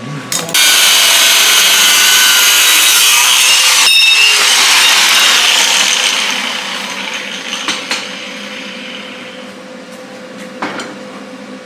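Power tool cutting through a threaded steel shaft, running loud and steady for about five seconds, then winding down, followed by a few light knocks.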